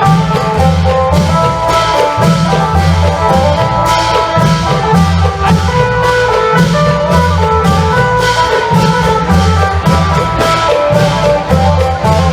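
Isan klong yao long-drum ensemble music: long drums and percussion beating a steady repeating rhythm under a melody on the phin (Isan lute).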